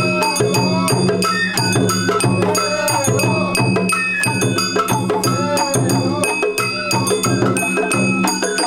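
Sawara festival hayashi played live on the float: a bamboo flute melody wavering in pitch over steady beats on taiko drums and a clanging hand gong.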